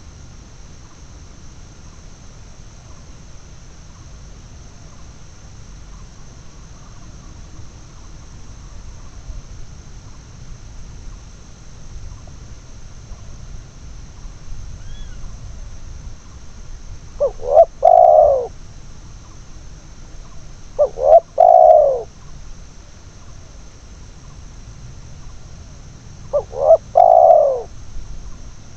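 Spotted dove (tekukur) cooing: three phrases of a few short notes run into a longer coo, the first about two-thirds of the way in, the others a few seconds apart.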